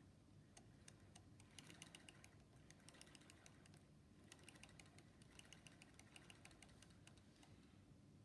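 Faint, irregular clicking in quick runs of small, sharp clicks, with short pauses between the runs.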